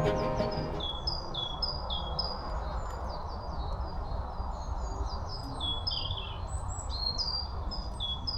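A small songbird singing a repeated two-note phrase, a higher note then a lower one, over and over, with steady outdoor background noise.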